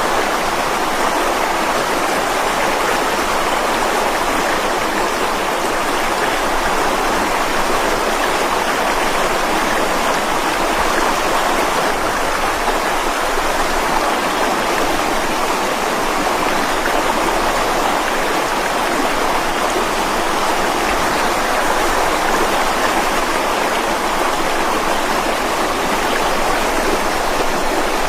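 Mountain stream running over rocks: a steady, even rushing of water.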